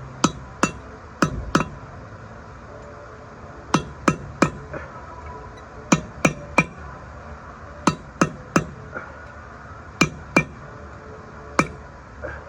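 Hammer striking a steel punch to drive a bearing race into a truck's rear hub: sharp metallic taps in quick groups of two or three, moving around the race to seat it evenly, about sixteen strikes with short pauses between groups.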